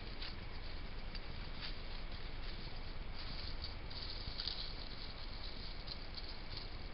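A hedgehog rustling and crackling through dry nesting material in short irregular bursts, busiest a few seconds in, over a steady background hiss with a faint steady high whine.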